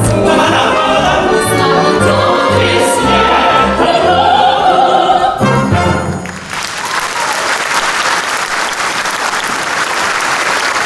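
A woman singing with orchestral accompaniment, the music ending on a held chord about six seconds in, followed by audience applause.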